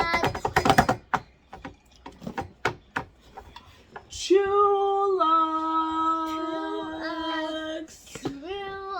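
A voice singing one long held note that steps down a little in pitch partway through, preceded by a few seconds of scattered short clicks and snatches of voice, with another short sung sound near the end.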